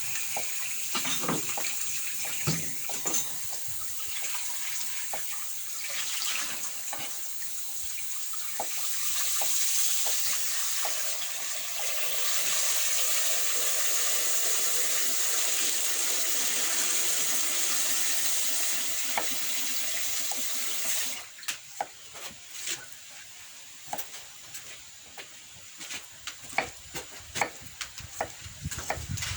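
Water running in a steady stream, cut off suddenly about two-thirds of the way through, followed by scattered light knocks and clatter.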